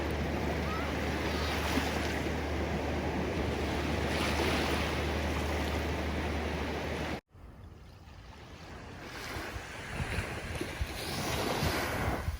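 Ocean surf washing steadily over a low, constant rumble. About seven seconds in the sound cuts off abruptly, then a quieter wash of waves returns and swells as another wave comes in near the end.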